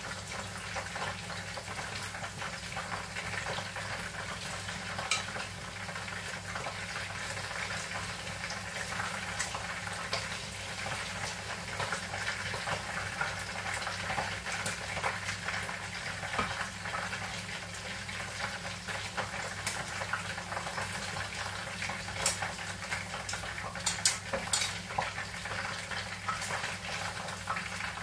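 Chicken wings sizzling as they fry in hot oil in a wok, with metal tongs clicking against the pan as the cooked pieces are lifted out, several sharper clicks near the end.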